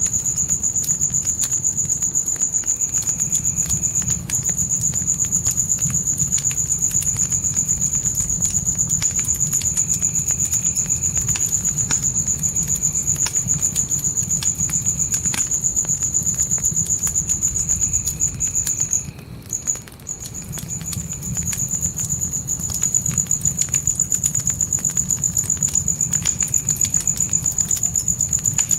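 Crickets trilling in a steady, high, unbroken chirr, with a fire crackling underneath in scattered sharp pops over a low rumble. The cricket trill drops out for about a second roughly two-thirds of the way through, then resumes.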